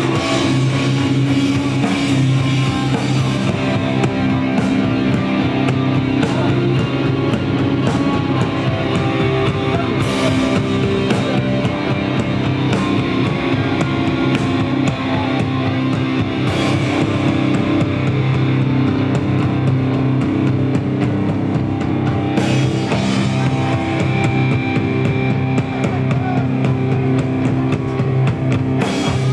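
Live rock band playing a loud, dense piece on drum kit and guitars, with held low notes and cymbal crashes every few seconds.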